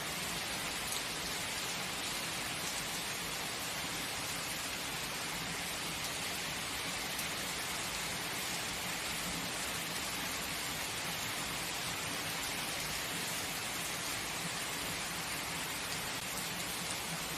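Heavy rain falling and pattering on surfaces as a steady, even hiss.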